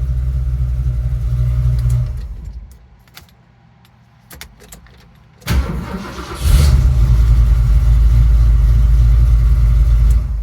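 1970 Ford Mustang Mach 1's newly installed engine idling with a low rumble, shut off about two seconds in; after a quiet gap with a few clicks it is cranked and restarts, then idles steadily until it is switched off near the end.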